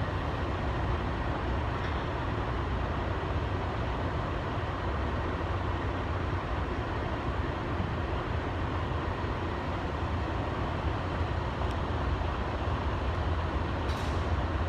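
Steady rumble of road and engine noise inside a moving truck's cab, with a faint click near the end.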